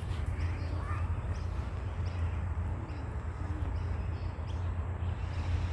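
Outdoor background: a steady low rumble with faint, short, high bird chirps repeating every second or so.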